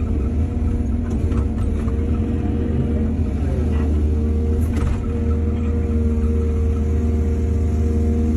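Excavator's diesel engine running steadily, with a few faint knocks in the first five seconds.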